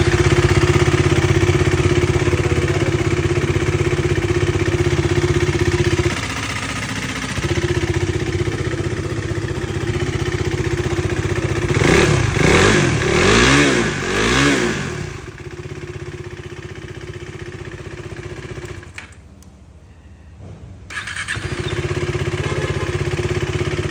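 KTM Duke 390 single-cylinder engine idling steadily, revved three times about halfway through, then idling again; the sound drops away for about two seconds near the end before the idle returns. The engine runs with its valve clearances freshly set by shims to cure a tapping noise from the cylinder head.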